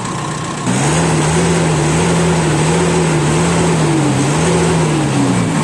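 VW Crafter 2.0 turbo-diesel engine running, then revved up less than a second in and held at a high, slightly wavering speed, with more hiss above the engine note. The turbocharger has been judged faulty.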